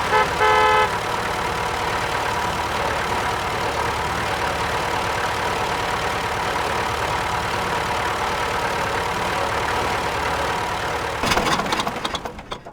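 Steady tractor-engine idling sound for the mini tractor, with a short pitched, horn-like beep about half a second in. Near the end the engine sound fades out into a rapid run of clicks.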